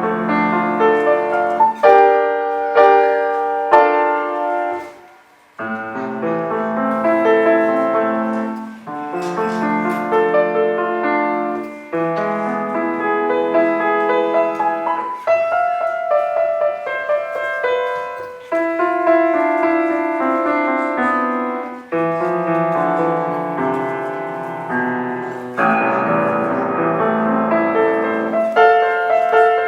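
Piano playing a solo piece, with runs of notes and chords in short phrases and a brief pause about five seconds in.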